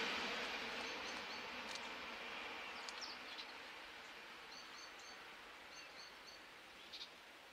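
A TGV EuroDuplex, a Lyria set, going away after passing: its running noise fades steadily into the distance. Small birds chirp in short repeated notes over it.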